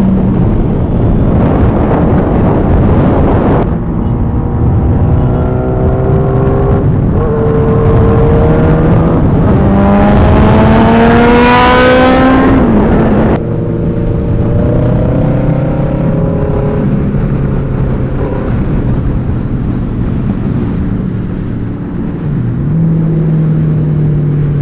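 Superbike engines, mostly Suzuki Hayabusas, revving and accelerating in long rising pulls through the gears. The hardest pull climbs from about nine seconds in to a peak near twelve seconds and then cuts off suddenly. The sound also changes abruptly near the start.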